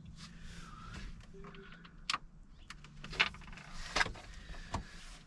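Faint handling noises: a few sharp clicks and knocks, spaced about a second apart, over a low steady hum.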